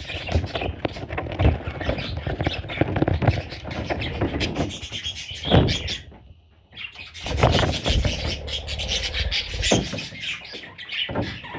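Budgerigar chicks squealing and chirping, mixed with many short clicks and low thumps. The sound briefly drops away about six seconds in.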